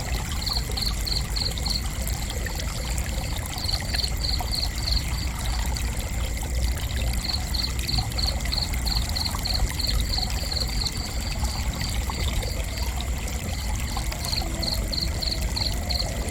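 Crickets chirping: high, evenly spaced chirps at about three or four a second, in bouts of a few seconds with short pauses between, over a steady high-pitched tone. Underneath is a constant rushing hiss with a low rumble, loud enough to be the main body of the sound.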